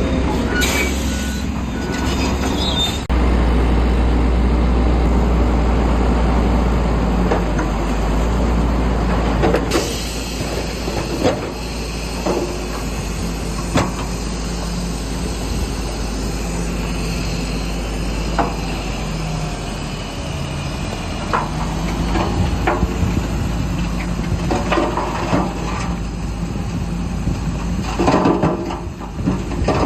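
Bulldozer's diesel engine running hard, growing louder about three seconds in, with scattered metallic clanks and short squeals from its steel tracks.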